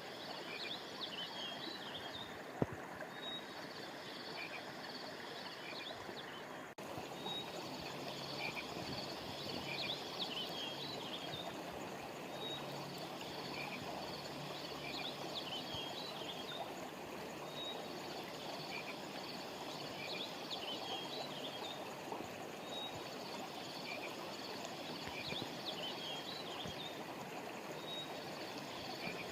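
Stream flowing steadily, overlaid with repeated clusters of high chirping calls from small frogs or birds, returning about every five seconds. A single sharp click sounds about two and a half seconds in.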